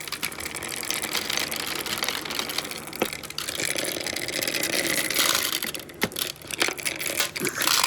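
Marbles rolling along a handmade marble-run track: a continuous rolling rattle with a few sharp clicks as marbles strike the course.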